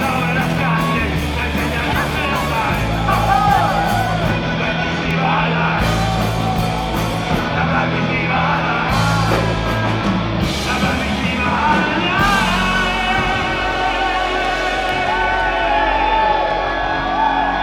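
A live band playing loudly, with a singer's voice singing and shouting over bass and drums. About twelve seconds in the bass and drums drop away, leaving the voice and held notes.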